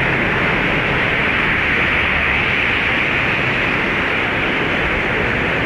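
Deduru Oya river in flood: fast, high water rushing in a loud, steady roar of noise.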